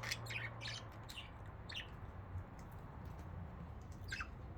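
Budgerigars chirping: a quick run of short, high chirps in the first two seconds, then a single chirp near the end.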